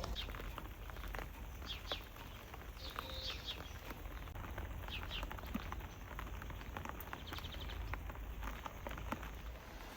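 Small birds chirping: a handful of short high chirps and a quick trill about seven seconds in, over a steady low rumble and scattered light clicks.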